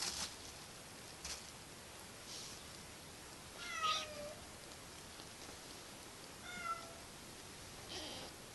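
Kitten meowing twice, two short calls a few seconds apart, with a few soft scuffles of play.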